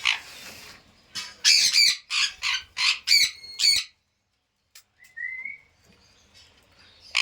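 Pet parrot squawking: a quick run of about six loud, harsh calls between one and four seconds in, then a brief rising whistle a second later.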